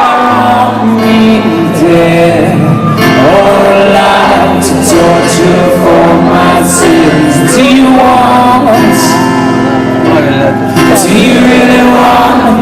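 Live rock band music in a wordless passage of the song: sustained chords over held bass notes, with some singing mixed in.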